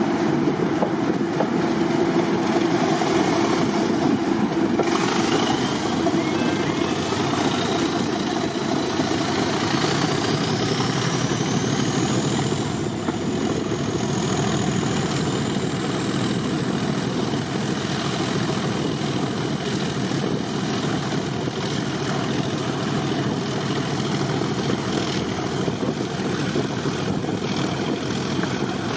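Heritage diesel locomotive engine running under power, a loud steady mechanical noise with a high whine that rises over several seconds about five seconds in, then holds steady.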